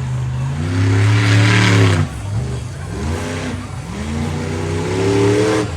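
Monster truck engine revving hard, its pitch climbing and falling several times. It is loudest over the first two seconds, drops off, winds up again, and cuts off abruptly near the end.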